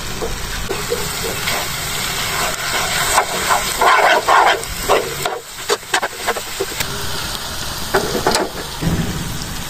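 Grated bottle gourd, nuts and khoya frying in desi ghee in a nonstick pan, giving a steady sizzle. A steel spoon scrapes and clinks against the pan several times as the mix is stirred.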